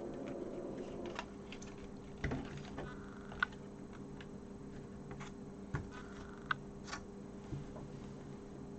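Scattered light plastic clicks and taps from handling Sinclair QL keyboard and case parts during reassembly, irregular and a second or so apart, over a faint steady hum.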